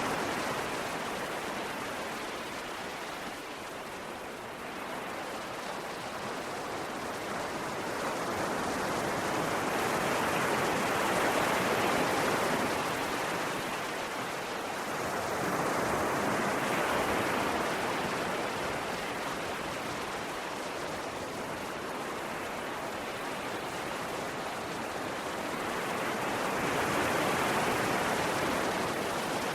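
Ocean waves washing on a shore, the surf swelling and ebbing in slow surges every six to ten seconds.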